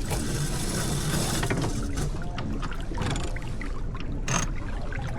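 Water rushing and splashing along the hull of a J/24 sailboat under sail, over a steady low rumble; the rush is loudest for the first second and a half, with a brief sharp splash or knock about four seconds in.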